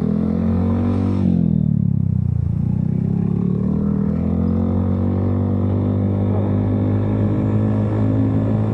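Motorcycle engine heard from on board while riding: the revs rise, fall away about a second in, then climb slowly again and level off.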